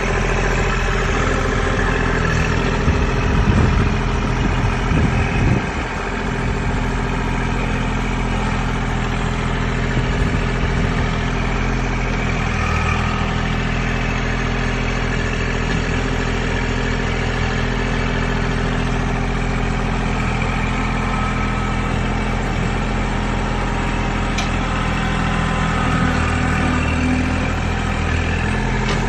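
Kubota L2501 tractor's three-cylinder diesel engine running steadily, with a louder, uneven stretch about three to five seconds in.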